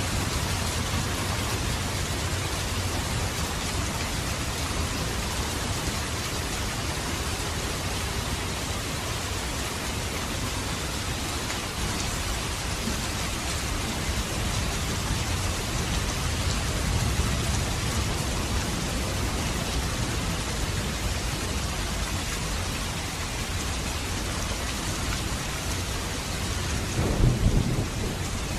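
Steady rain falling, an even hiss with swells of deep low rumble. A short, louder low rumble comes near the end.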